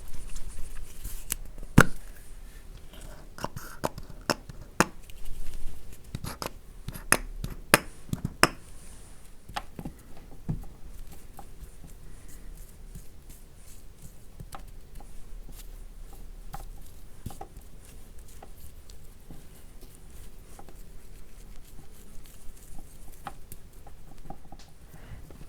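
Hands working a purifying foam cleanser on a mannequin's face, close-miked: a run of sharp clicks and taps in the first several seconds, then softer, quicker small tapping and crackling.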